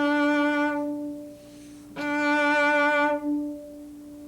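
Cello bowing one sustained note, then after a short gap the same note again, each lasting about a second and a half.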